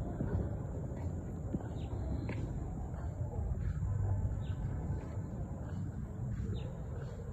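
Birds giving short, high chirps that drop in pitch, scattered about once a second, over a steady low rumble.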